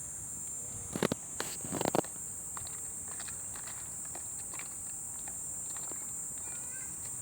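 Steady high-pitched chorus of insects, a continuous shrill drone, with a couple of short knocks about one and two seconds in and a few faint ticks.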